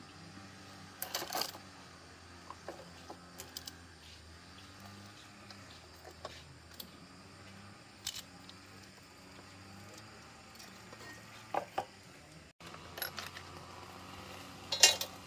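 Scattered clicks and clinks of small parts and hand tools being handled during chainsaw engine repair, with a louder clatter about a second in and another near the end.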